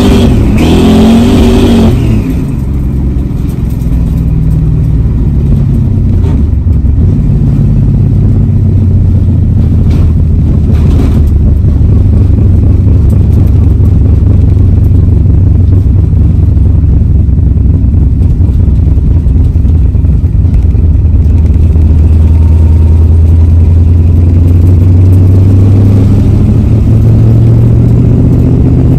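A 1965 Mustang's 289 V8, fed by one carburettor barrel per cylinder, heard from inside the car. It revs up hard for about two seconds, then drops back to a steady low run for most of the time, and picks up again in a rising pull near the end.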